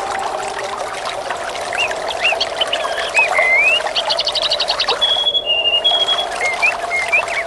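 Small birds chirping and whistling, with a quick trill about halfway and a few held whistled notes just after, over the steady rush of flowing water.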